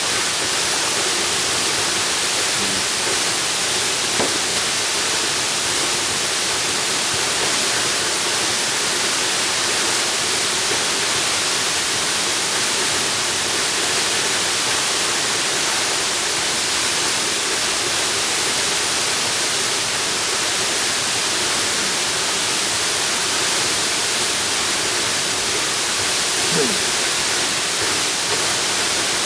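Waterfall: water pouring and splashing in a steady, unbroken rush, heavy in hiss.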